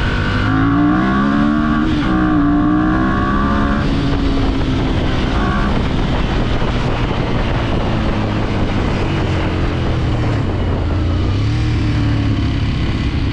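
Motorcycle engine pulling away under throttle, its pitch climbing, dropping at an upshift about two seconds in and climbing again, then settling into a steady cruising drone with road and wind noise.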